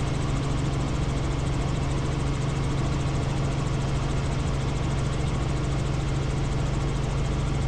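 Helicopter in flight: a steady drone of rotor and engine with a strong low hum and an even rush of noise.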